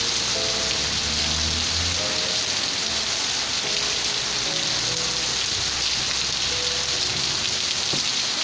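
Steady rain falling, an even hiss with no let-up. Faint held notes of soft music sit beneath it.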